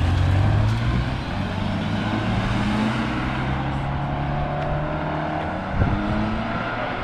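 Car engines running as cars pull out and drive away, the nearest one loudest at the start and easing off about a second in, with engine notes rising slowly as they accelerate.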